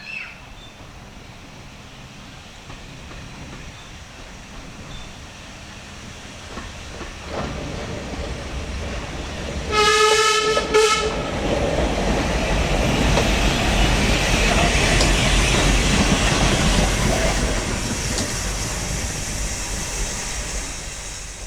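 A heritage train approaching and passing, giving two short warning blasts about halfway through. Its running noise builds, peaks soon after the blasts and then eases off as it goes by.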